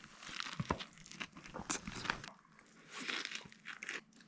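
Crunchy bites and chewing of a crumbed venison heart schnitzel in a bread roll, close to the microphone, with several sharp crackles from the fried crumb crust.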